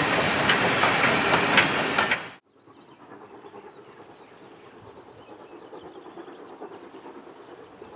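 Steam-hauled train passing close and loud, its wheels clicking over rail joints. The sound cuts off abruptly about two seconds in, leaving a quiet background with faint high chirping.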